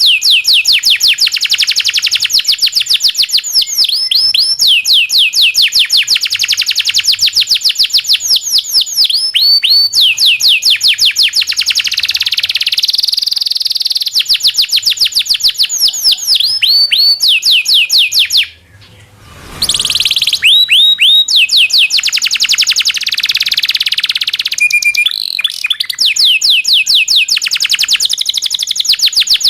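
Local domestic canary singing its long song: long rolls of rapid repeated high notes, phrase after phrase, with one brief break about two-thirds of the way through.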